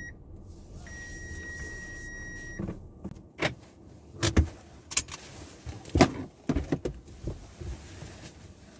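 Kia Seltos in-car electronic warning chime sounding as a long steady high beep, followed from about three seconds in by a series of sharp clicks and knocks inside the car.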